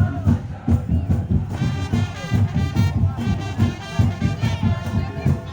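Madurese tong-tong parade band playing live: fast, heavy drumming, with a sustained melody line coming in over it about a second and a half in.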